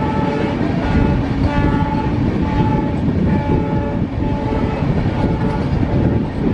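Passenger train running on the rails, with a steady rumble of wheels and track. Over it, a multi-tone horn sounds in short blasts, again and again.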